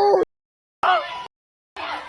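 A loud vocal exclamation cut off abruptly, a moment of dead silence, then a second short exclamation, cut off again. About three-quarters of the way in, a noisy background of crowd chatter begins.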